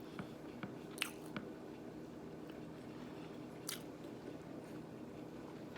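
Close-up chewing and wet mouth sounds of a person eating: soft clicks and smacks, with a couple of sharper ones about a second in and past the middle, over a faint steady hum.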